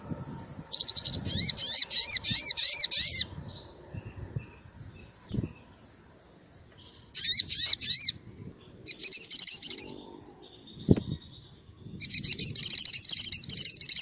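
Sogon sunbird (kolibri sriganti) calling in four bursts of rapid, sharp, high repeated notes, each lasting one to two and a half seconds, with short gaps between them. A single sharp click comes about eleven seconds in.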